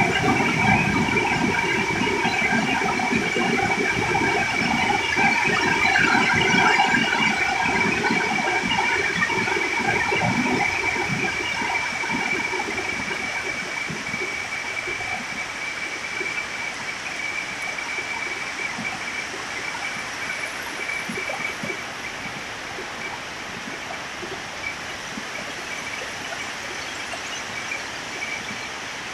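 Heavy rain pouring down, a steady hiss of water, with a faint steady high tone above it. The rain grows gradually quieter, and a deeper rumble in it dies away over the first half.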